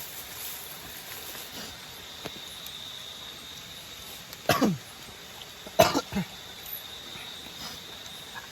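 Steady chorus of tropical nocturnal insects with a constant high-pitched drone. About halfway through, two short, loud sounds with falling pitch come about a second and a half apart, much louder than the chorus.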